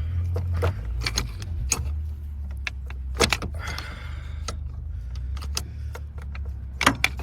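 Wrench or ratchet clicking and clinking against a car battery's negative terminal clamp as it is worked loose. The clamp is stuck fast with corrosion. There are irregular sharp metal clicks and knocks, two of them louder, over a steady low rumble.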